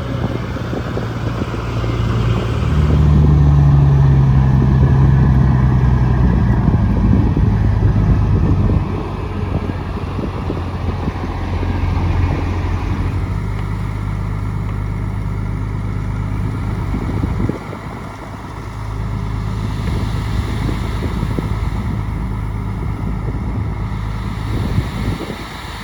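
Bulldozer diesel engine running under load, rising to its loudest for several seconds near the start and then easing, with a brief drop a little past the middle.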